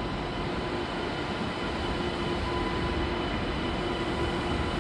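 SNCF TGV high-speed train moving slowly along the platform: a steady rumbling hum with a few held electric tones, getting slightly louder.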